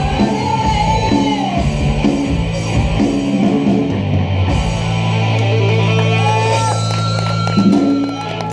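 Live rock band with distorted electric guitar. A chopped rhythmic riff gives way about halfway through to a long held chord with bending guitar notes over it.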